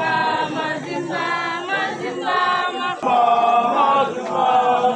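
Group of scouts singing a campfire song together, unaccompanied, in long held notes.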